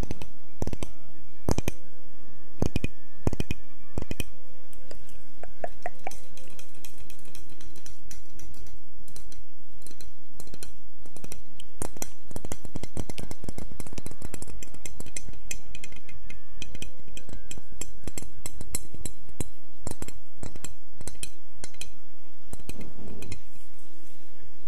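Close-miked ASMR tapping and clicking, a dense run of small sharp taps with light glassy clinks.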